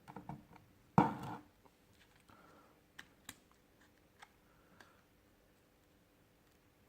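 Sony Xperia XA2 Ultra's back cover being pried off its plastic clips: one sharp snap about a second in, then a few small scattered clicks.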